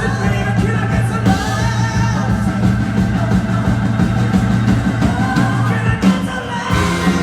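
Live rock band playing loudly, with held chords over a steady low bass and drum groove and some singing.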